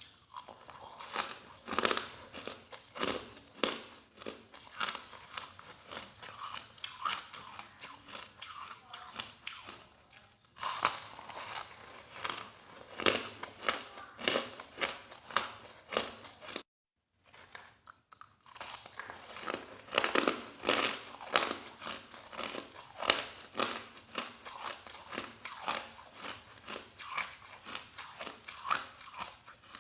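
A person chewing soft crushed ice in a rapid run of crunches. The sound cuts out completely for about half a second a little past halfway.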